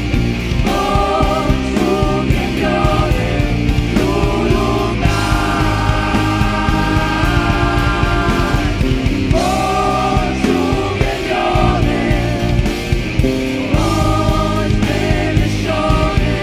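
Live worship band music with singing: a dense, steady band backing under sung lines, with long held notes around the middle.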